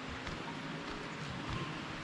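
Steady rush of running water from a mountain stream, with a few soft thuds of footsteps on the trail.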